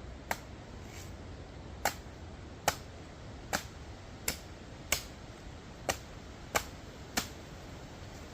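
Machete chopping open a young jelly coconut: about ten sharp strikes, each with a brief ring, roughly one every 0.7 seconds.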